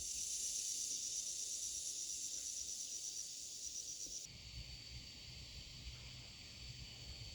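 Insects chirring in a steady high, rapidly pulsing chorus. About four seconds in the chorus changes abruptly to a steadier high drone, with a low rumble underneath.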